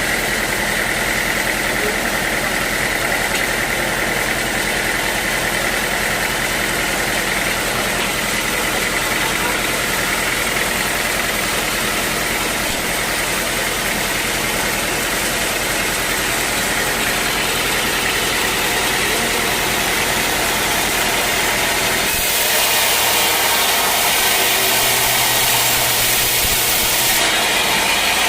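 Sawmill machinery running steadily with a constant mid-high whine. About 22 seconds in, the low hum drops away and the sound turns brighter and hissier for several seconds.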